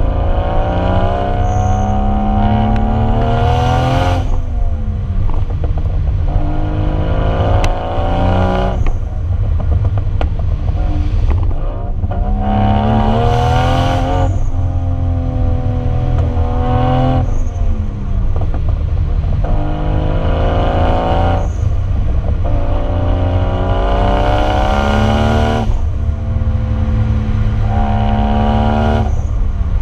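Lexus IS300's swapped 1JZ inline-six running through a Vibrant exhaust, accelerating again and again, the engine note rising steadily in pitch and then breaking off briefly at each gear change before climbing again.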